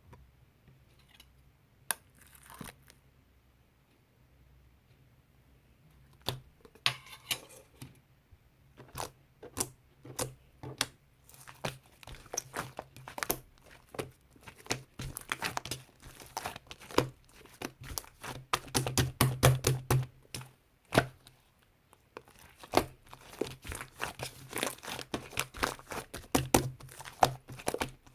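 Slime being squished and pulled by hand, giving off sharp pops and crackles of trapped air. The crackles are sparse at first and grow into a dense, fast run through the second half.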